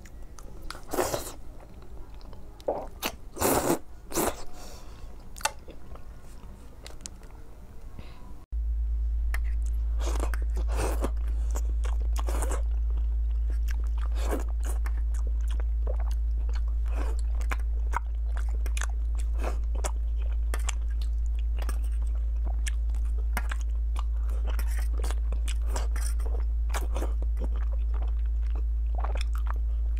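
Close-miked eating: biting and chewing of braised meat, heard as many short, irregular mouth clicks. After a cut about eight seconds in, a steady low hum runs underneath.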